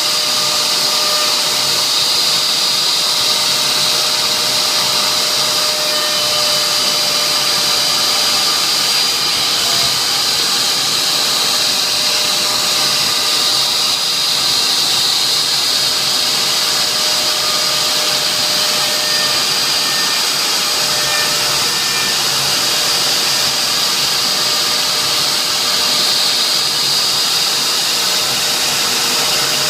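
CNC router spindle running with a steady high-pitched whine while engraving a signature board.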